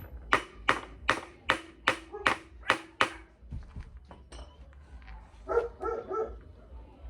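A metal tool tapping on metal during motocross wheel work: eight sharp, evenly spaced taps, about two and a half a second, each ringing briefly. The tapping then stops.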